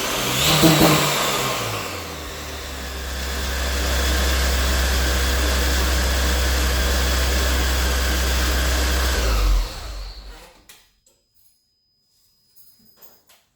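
Supercharged Honda S2000 2.2-litre four-cylinder revved once, then running steadily for several seconds before it shuts off about ten seconds in. A few faint ticks follow in near silence.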